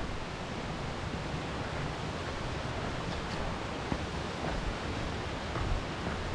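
Steady rush of wind and road noise on the microphone of a Yamaha Xmax scooter under way, with a few faint knocks.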